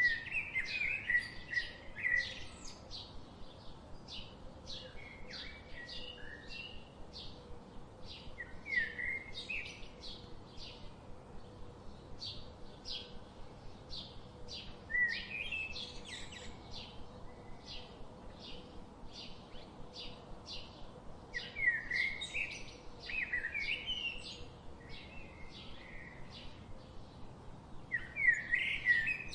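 Birds chirping: a steady series of short, high chirps, about two or three a second, with warbling phrases breaking in every few seconds.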